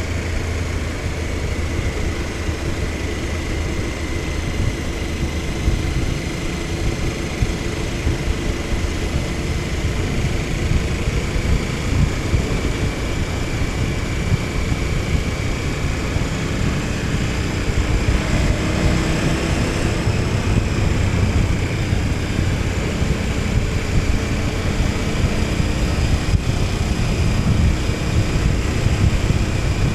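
KTM 1290 Super Adventure S's V-twin engine running as the motorcycle rides along, with steady road and wind noise. The engine pitch rises a little about two-thirds of the way through, then eases off.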